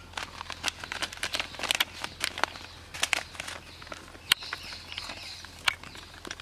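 Whole spices crackling and popping as they fry in a hot pan of oil: a dense run of sharp, irregular pops in the first three seconds, thinning to scattered single pops.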